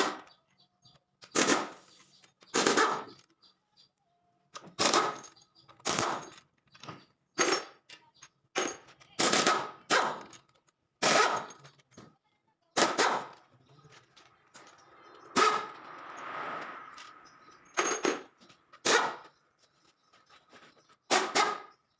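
Repeated sharp metal-on-metal knocks, roughly one every second or so, each leaving a brief ringing tone, with a longer rasping sound about two-thirds of the way through.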